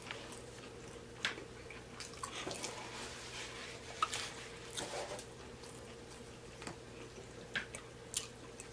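Close-miked eating of fried fish: scattered soft chewing and lip-smacking sounds, a few at a time, over a faint steady hum.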